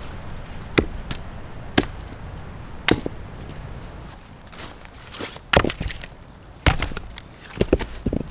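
Wood being chopped: a run of sharp chopping strikes, roughly one a second, with a few coming closer together near the end.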